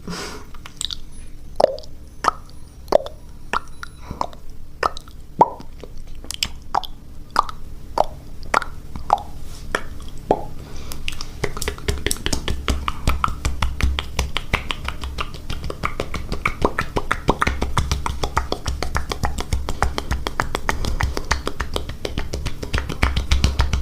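Close-miked ASMR mouth sounds. First comes a slow series of wet mouth pops, each with a quick drop in pitch, about one every half second to second. From about eleven seconds in they give way to a dense, fast wet clicking and smacking.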